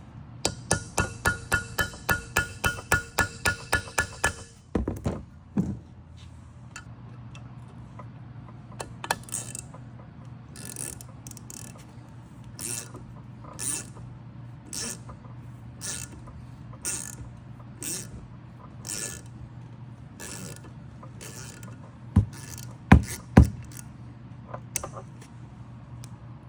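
Hand ratchet wrench clicking in quick even strokes, about four a second, then slower single strokes about once a second, working a stuck fastener on an LS engine loose without heat. A few sharp metal knocks come near the end.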